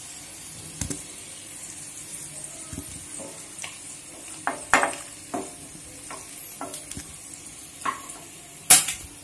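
Halved potatoes and scored hard-boiled eggs sizzling in hot mustard oil in a kadai, with a steady hiss. A spatula knocks and scrapes against the pan about eight times as the pieces are turned and lifted out, the loudest knock near the end.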